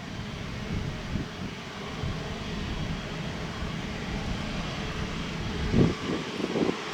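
Airbus A350-941's Rolls-Royce Trent XWB jet engines heard from a distance as a steady rumble and hiss as the airliner sets off for takeoff.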